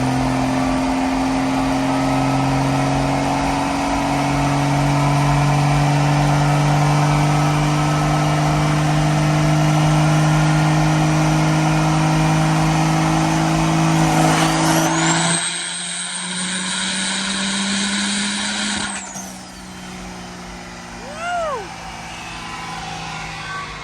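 Drag truck's engine running hard on a chassis dyno, its pitch climbing slowly during a pull. About fifteen seconds in the sound changes abruptly and a high whistle rises, holds for a few seconds and falls away.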